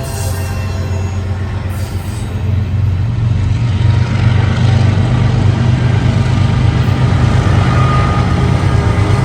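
Diesel locomotive engines running with a deep, steady rumble that grows louder about three seconds in, as of a train drawing near.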